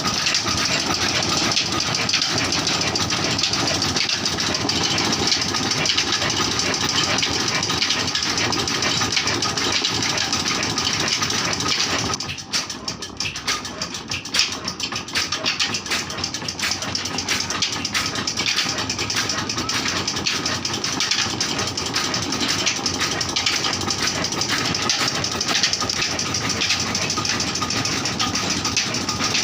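Old diesel 'black engine' of a village tubewell running steadily after a cold start. About 12 seconds in it falters for a couple of seconds, going quieter and more uneven, then picks up and runs on evenly.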